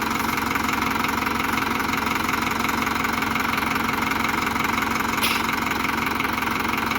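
Tractor engine running steadily with a dense, even rattle, and a short click about five seconds in.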